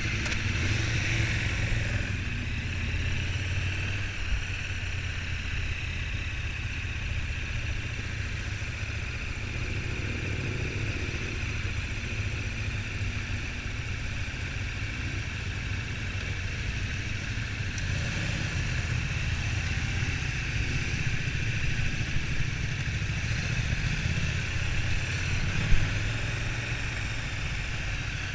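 Motorcycle engines running steadily, with a single short knock a little before the end.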